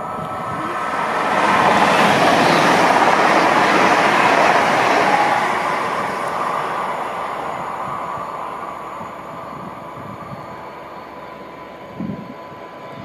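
Hull Trains Class 802 bi-mode multiple unit passing along the line: a rush of wheel and air noise swells to a peak within the first few seconds, then fades slowly as the train goes away, leaving a steady thin whine. A short thump comes near the end.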